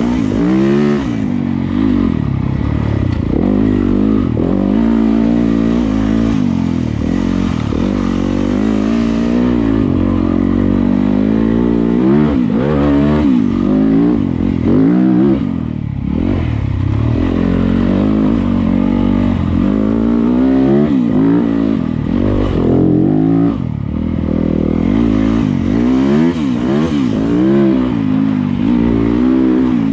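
Yamaha YZ250FX's four-stroke single-cylinder engine on a trail ride, its revs rising and falling continuously with the throttle, with two brief drops in level about halfway and about three-quarters of the way through.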